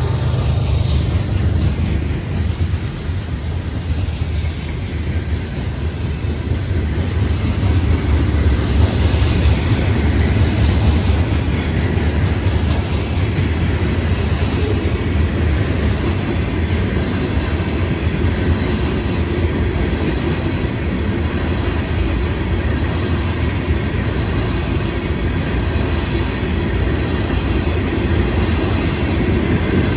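Florida East Coast freight train's cars, tank cars and gondolas, rolling past a grade crossing at speed: a steady low rumble of steel wheels on rail.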